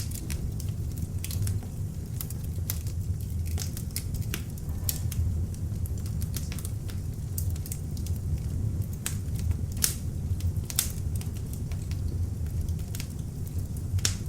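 Beech-wood log fire burning in an open fireplace: frequent irregular sharp crackles and pops from the burning wood over a steady low rumble of the flames.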